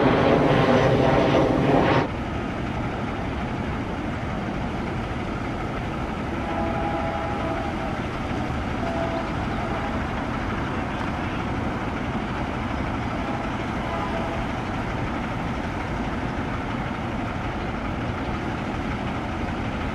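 Train rolling past on temporary detour track, a steady rumble. A louder sound with several held tones cuts off abruptly about two seconds in, and faint brief tones come through a few seconds later.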